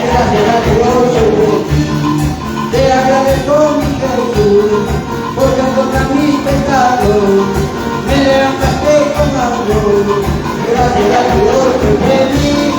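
Upbeat Latin-style praise band music with a steady beat and a winding melody line.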